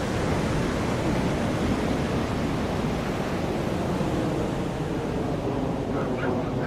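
Steady broad roar of jet engine noise, even in level and heaviest in the low end.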